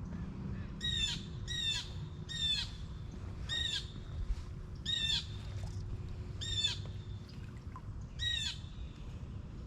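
A bird calling over and over: about eight short calls with uneven gaps between them.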